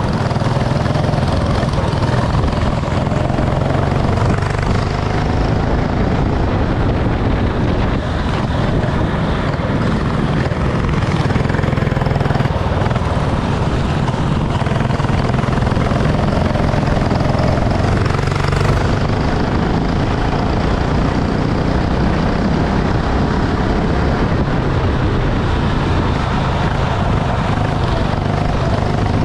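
Go-kart engine running continuously through a race, a steady rumble with a faint wavering engine note above it.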